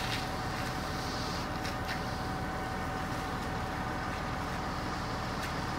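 An engine running steadily at a constant speed, with a low hum and a thin, steady whine held throughout.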